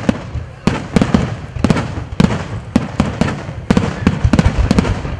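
Aerial fireworks shells bursting in a rapid barrage: a dense run of sharp bangs, about three or four a second, over a continuous low rumble of overlapping explosions.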